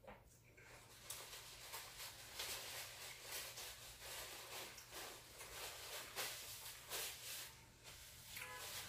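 A person chewing food close to the microphone: short, crisp mouth noises, a few each second.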